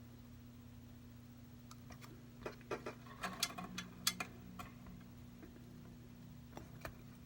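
Light clicks and taps of small repair tools against an iPad, a quick cluster of ticks in the middle and a couple more later, over a steady low electrical hum.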